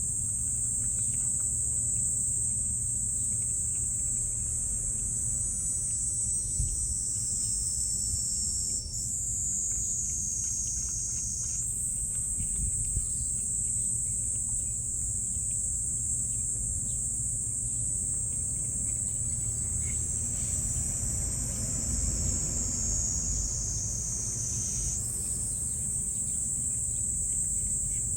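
Crickets or similar insects chirring in a steady high-pitched chorus; the pitch dips slightly lower twice. A steady low rumble runs underneath.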